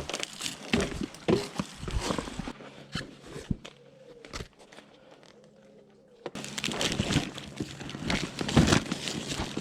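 Rustling and crinkling of material being handled, with scattered light knocks and clicks. It goes quieter for a few seconds in the middle, then the rustling picks up again.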